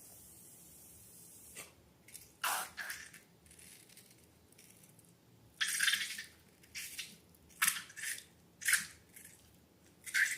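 Slime being handled: a series of short, wet squishing and crackling sounds, irregularly spaced and several seconds apart.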